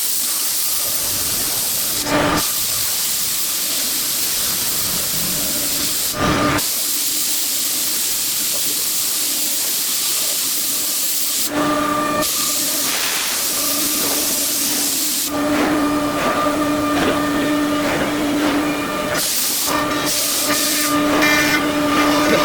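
5-axis CNC machine running: a steady, loud hiss of air, broken by a few short clicks. About two-thirds of the way through, a steady machine whine joins it.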